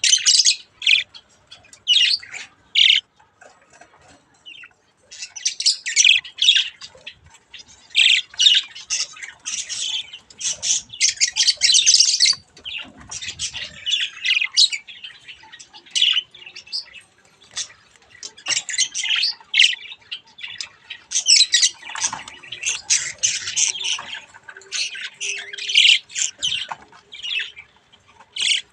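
Budgerigar chicks calling in rapid runs of short, high chirps and chatter, with brief lulls between the runs.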